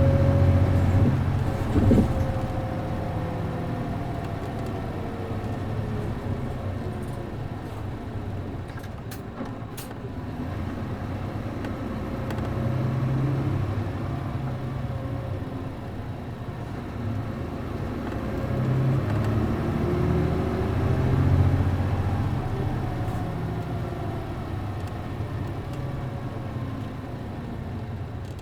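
A city bus's MD92TJ diesel engine running as the bus drives, heard on board. The engine note falls near the start and later climbs and swells twice as it pulls away again, with a sharp click about two seconds in.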